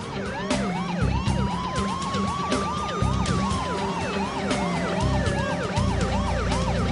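Police siren in a fast yelp, about three rises a second, joined by a slower wailing tone that rises and then falls. Under it runs a dramatic music score with pounding low beats and sharp percussive hits.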